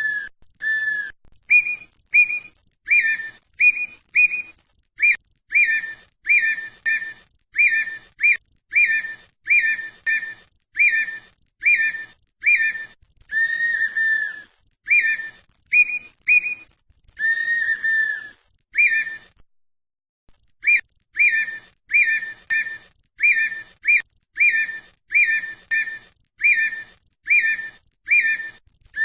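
Red-winged tinamou (perdiz) singing: a long run of short, clear whistled notes at about two a second, broken now and then by a longer drawn-out whistle, with a brief pause about two-thirds of the way through.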